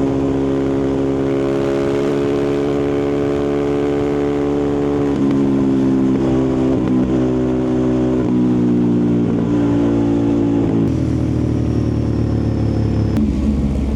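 Ducati Multistrada 1260 Pikes Peak's 1262 cc Testastretta V-twin engine and exhaust running, its note rising slowly at first, then stepping up and down in pitch several times as revs change.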